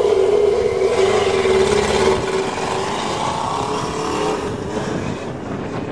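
Motorcycle engine of a home-built dune buggy running hard at high revs while still cold. The note holds steady for about two seconds, then slowly gets quieter as the buggy drives away.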